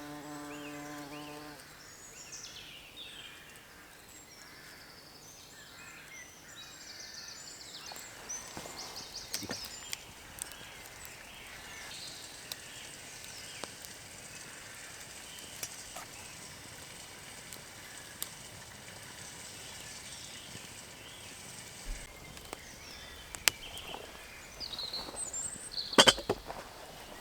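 A bumblebee buzzing close by, stopping about a second and a half in, then faint woodland ambience with high chirps and scattered sharp clicks and knocks, the loudest near the end.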